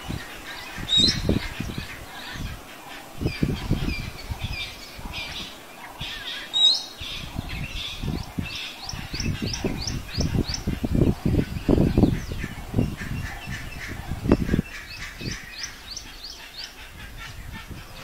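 Bird chirping in quick, repeated high calls, over uneven low rumbling gusts.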